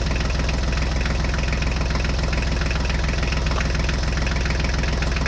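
Tractor engine running steadily at an even pace, with a fast, regular chugging.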